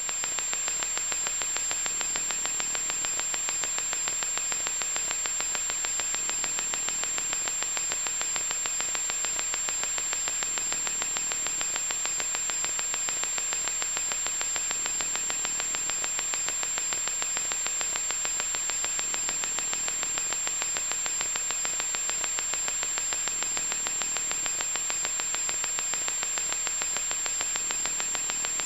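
Loud, steady electronic static hiss with a high-pitched whine running through it, unchanging throughout.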